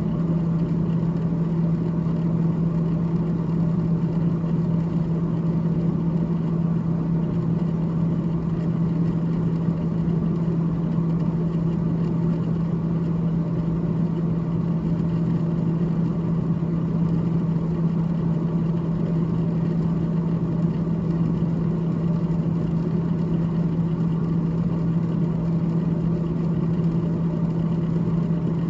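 Freezer fan of a GE GTH18XCTZRBB refrigerator running with a steady, unchanging low hum.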